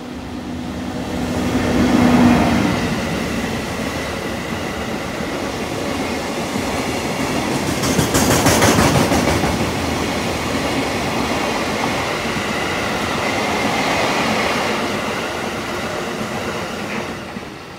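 EF64 electric locomotive passing close by, hauling a long train of limestone hopper wagons. It is loudest about two seconds in as the locomotive goes by, with a steady low hum. Then the wagons' wheels clack rapidly over the rail joints, loudest around eight seconds in, and the sound fades as the train moves away.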